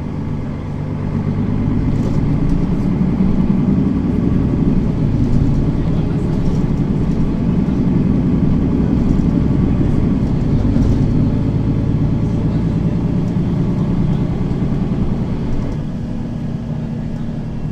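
Mercedes-Benz Citaro facelift city bus's diesel engine running under load, heard from inside the cabin. It grows louder about two seconds in and eases off near the end.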